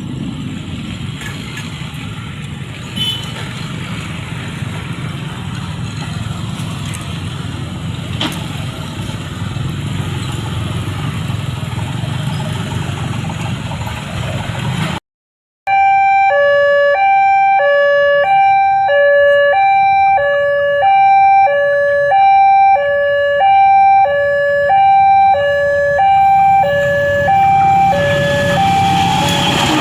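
A steady rumbling noise, then after a brief cut a level-crossing warning alarm sounding an electronic two-tone signal, alternating low and high about once a second, that warns of an approaching train. Rising noise comes in near the end.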